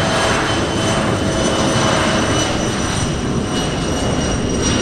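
Bombardier Challenger 650 business jet's twin turbofan engines running, a steady, loud jet noise with a thin high whine over it.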